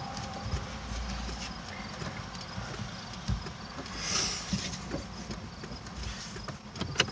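Van cabin noise while driving: a steady low engine and road rumble with a few faint, irregular knocks or clicks.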